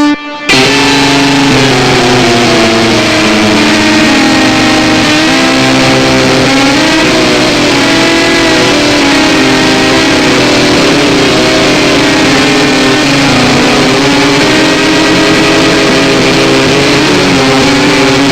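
Harsh noise music: a loud, dense distorted wall of sound with droning tones that slide slowly up and down in pitch. It cuts out for a moment just after the start, then runs on unbroken.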